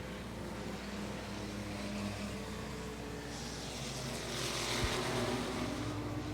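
Several race trucks' engines running on the track, a steady mix of engine tones with a wash of noise that grows about halfway through as the pack comes past.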